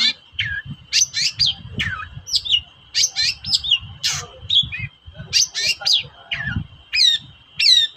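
Long-tailed shrike singing hard: a quick, continuous run of sharp downward-sweeping chirps and whistles, about two or three a second, over a faint steady high tone.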